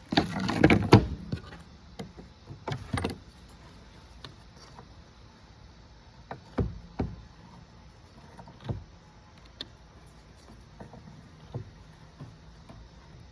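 Handling noises while a small latch is fitted to a homemade filter frame. A loud scraping rustle lasts about a second at the start, then scattered knocks and clicks follow.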